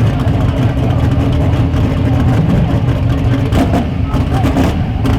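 Drag-racing car's engine idling with a loud, steady low rumble.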